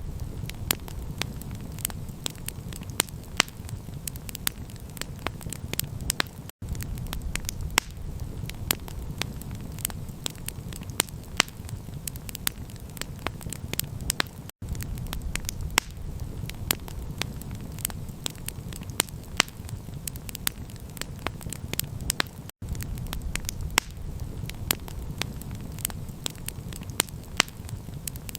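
Campfire crackling, with many sharp pops and snaps over a steady low rumble. The sound cuts out for an instant three times, about eight seconds apart.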